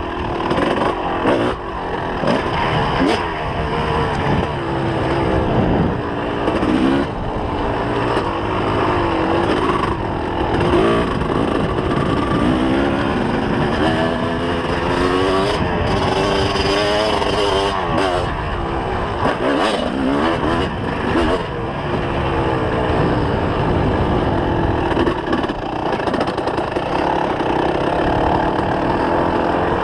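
Two-stroke engine of a 2004 Kawasaki KX250 motocross bike being ridden hard off-road, its revs rising and falling again and again through the gears. Short knocks and clatter from the bike come through over the engine.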